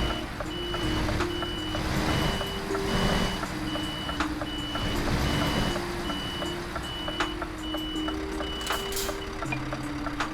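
Truck reversing alarm beeping steadily, about one beep every 0.8 seconds, over the low noise of the running truck; the beeping stops near the end.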